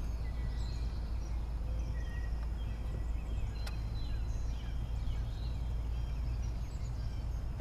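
Birds chirping with short high notes over a steady low rumble, with two sharp clicks about three seconds in.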